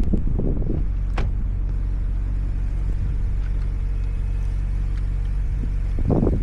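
Car engine running steadily at idle in the cold, with a short sharp tick about a second in.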